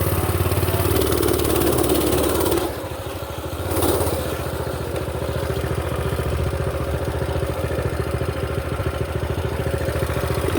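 Mini bike's small pull-start engine running steadily, its level dipping briefly about three seconds in before holding steady again.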